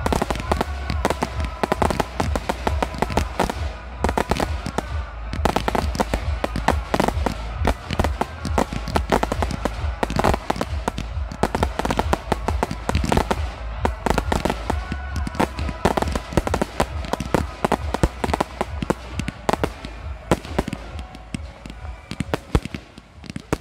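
Fireworks display going off: a dense, rapid series of bangs and crackles with a low rumble underneath. It thins out slightly near the end.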